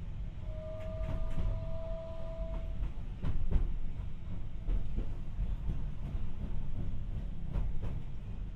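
Tokyu Setagaya Line 300 series tram car heard from inside with the windows open: a low running rumble from the wheels, with scattered clicks over the rail joints. A steady high squeal starts about half a second in and lasts about two seconds.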